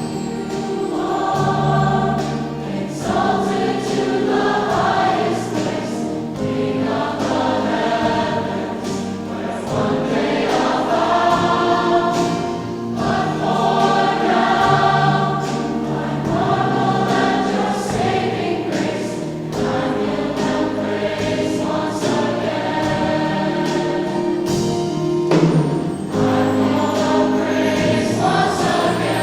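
A choir singing a worship song with instrumental accompaniment.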